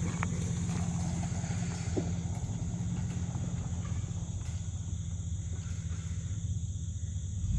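Truck engine idling with its exhaust cut off: a steady, low engine note with a couple of faint clicks, one about two seconds in.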